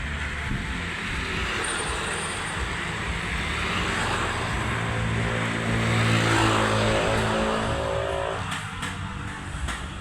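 A motor vehicle passing on the road, its engine and tyre noise growing louder to a peak about six seconds in, then fading away.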